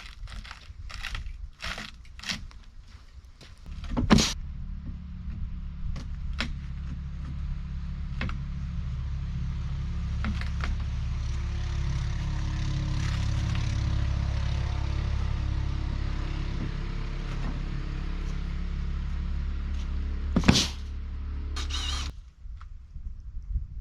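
A few knocks and taps, then a steady motor hum starting about four seconds in and stopping shortly before the end. A loud thump comes at its start and another shortly before it stops.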